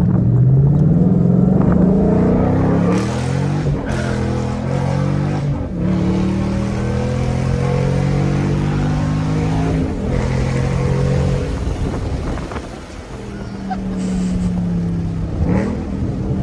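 2013 Mustang GT's 5.0 V8 running through a straight-piped exhaust (muffler and resonator deleted), pulling hard with rising pitch. Breaks about 4, 6 and 10 seconds in fit manual gear changes. About 13 seconds in it falls off briefly before pulling again.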